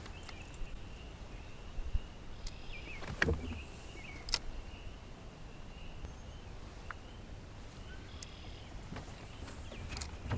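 Outdoor ambience with a steady insect drone, broken by a few light knocks and brief rustles.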